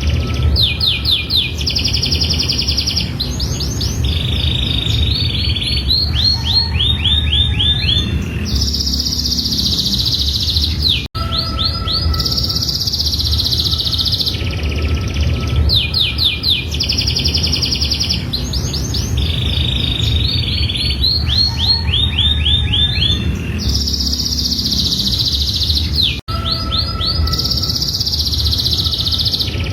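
Domestic canary singing a long, continuous song of rapid trills and rolling phrases. The same stretch of song repeats about every fifteen seconds, with a brief break at each repeat, over a steady low rumble.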